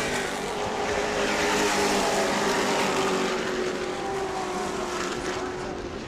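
Several short-track racing trucks running at speed around an asphalt oval, their engine notes overlapping and sliding up and down in pitch as they go by.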